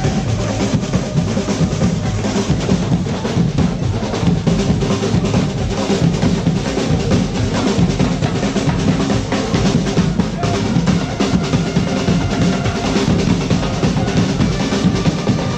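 Drum band playing: bass drums and snare drums beating a dense, continuous rhythm.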